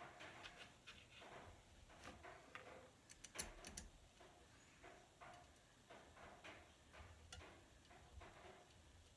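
Faint, irregular clicks and light knocks of small parts and hand tools being handled during assembly, the sharpest cluster about three seconds in.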